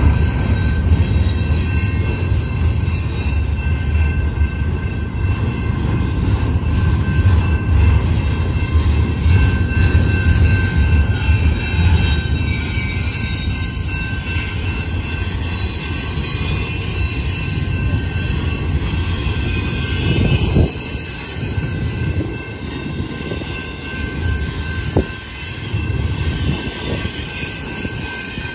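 Double-stack intermodal freight cars rolling past: a heavy low rumble of steel wheels on rail with a thin steady squeal over it. The rumble eases after about twenty seconds, and a couple of short knocks come near the end.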